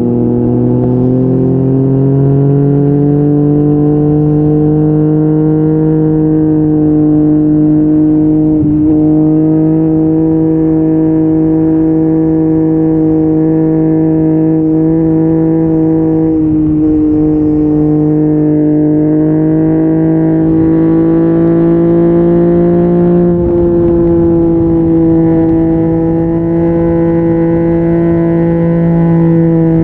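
Yamaha MT-09's three-cylinder engine through an Akrapovic exhaust, pulling under way: the pitch climbs over the first few seconds, then holds at steady cruising revs with gentle swells and a few brief breaks.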